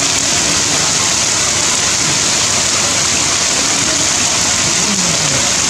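Heavy rain falling steadily, a loud unbroken hiss.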